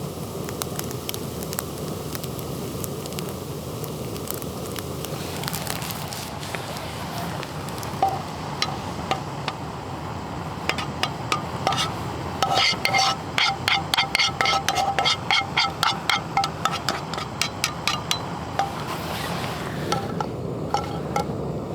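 Steady hiss and crackle of the campfire and cooking, with a long run of quick, ringing metallic clinks from about eight seconds in to near the end: a metal utensil stirring and striking inside a metal camp pot.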